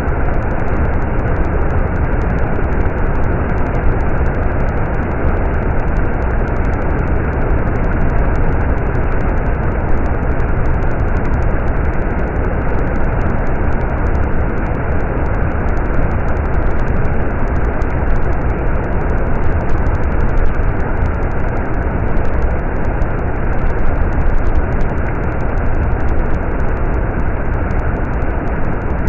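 Stream water running, a loud steady rush with no pauses or changes.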